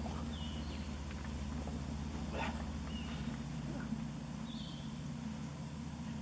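A motor runs with a steady low hum and a fast pulse. Short high bird chirps sound a few times over it.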